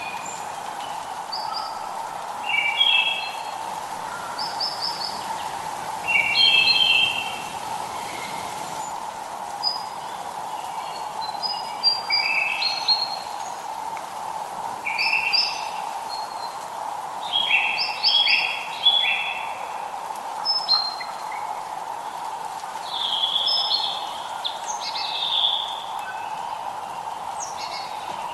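Songbirds singing short, chirping phrases, a new phrase every second or two, over a steady background hiss.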